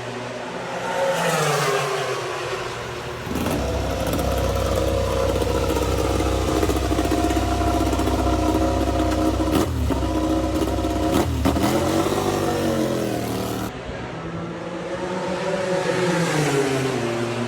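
Racing motorcycle engines revving and running, the pitch sweeping down and up. The sound changes abruptly about three seconds in and again near the end, as one engine recording gives way to another.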